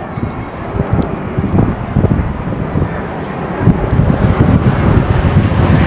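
Airplane engine noise from an aircraft at the field, a dense rumble that grows louder over the second half, with a faint high whine drifting up and then down.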